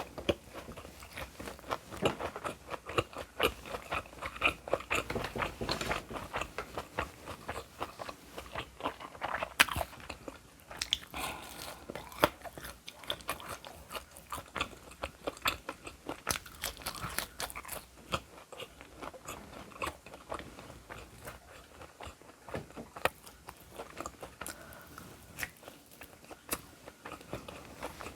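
Close-miked eating: steady chewing and biting with many short, crisp crunching clicks.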